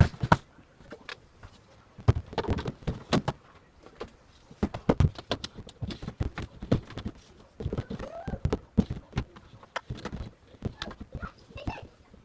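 Irregular knocks and clicks of things being handled, with a short rising-and-falling squeak about eight seconds in.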